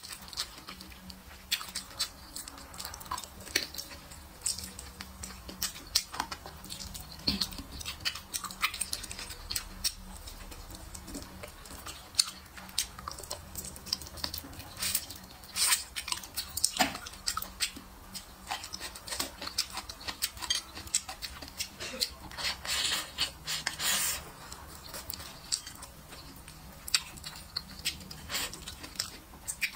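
Close-miked eating: a person chewing braised meat and peppers, with irregular clicking and crackling mouth sounds. Now and then wooden chopsticks click against a ceramic plate.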